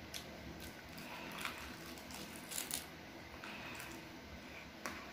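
Seaweed snack being bitten and chewed close to the mouth, giving several short crackles at irregular intervals, roughly one a second.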